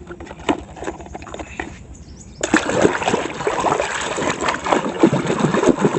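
Light clicks of plastic toys being handled, then, about two and a half seconds in, water starts splashing and sloshing as a muddy toy car is washed.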